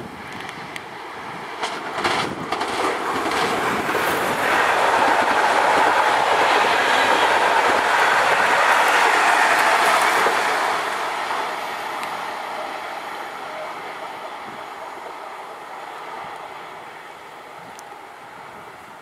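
Stadler FLIRT electric multiple unit (PKP Intercity ED160) passing by on the tracks: wheels rumbling on the rails with a few clicks over rail joints about two seconds in. The sound swells to its loudest about halfway through as the train goes past, then fades steadily as it moves away.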